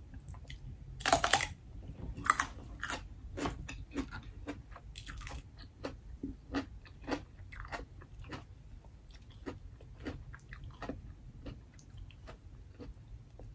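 Close-miked crunch of a bite into a raw radish about a second in, followed by irregular crunchy chewing.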